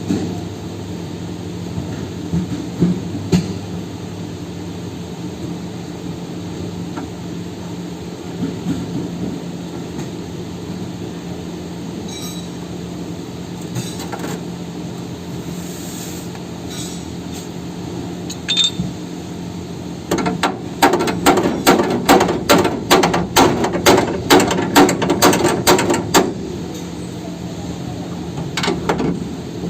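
Metal being hammered in quick succession, about four blows a second for several seconds past the middle, over a steady low machine hum, with a few scattered knocks before it.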